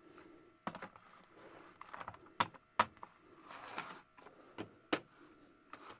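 Irregular sharp plastic clicks and taps with soft rustling, from hands handling and turning over a Bachmann HO-scale model locomotive to check its wheels, which have been making it run rough.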